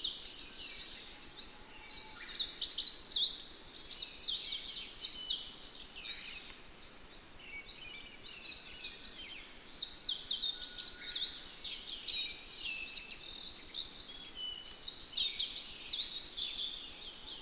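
Many small birds chirping and twittering at once in a dense, continuous chorus of quick, high chirps.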